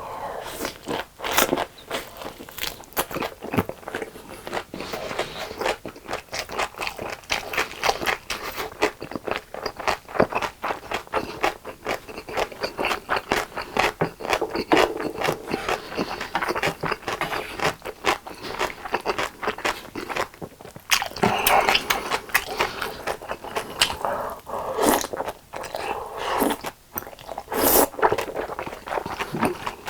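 Close-miked chewing and eating: a dense, steady run of wet mouth clicks and smacks, with a few louder bites.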